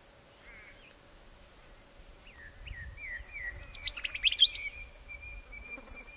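Small bird calling: a run of short chirps and quick sharp notes, loudest about four seconds in, ending in a thin held whistle near the end.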